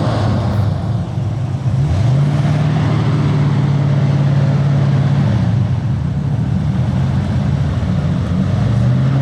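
A car engine running, its revs rising about two seconds in and held steady for a few seconds, then falling back and rising again near the end.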